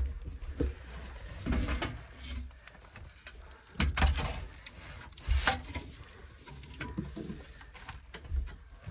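Irregular knocks, clatters and scraping from work materials being handled, over a low rumble.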